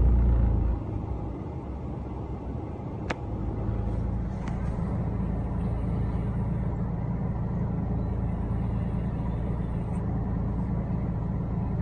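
Steady low hum of a car heard from inside its cabin, likely the engine idling. A deep rumble drops away within the first second, and there is a single sharp click about three seconds in.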